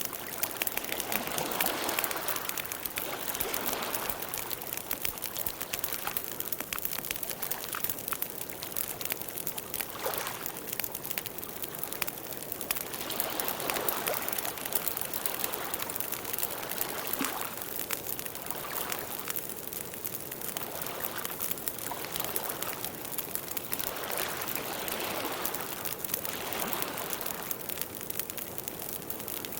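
Campfire burning: wood crackling and popping over a hiss of flame that swells and fades every few seconds.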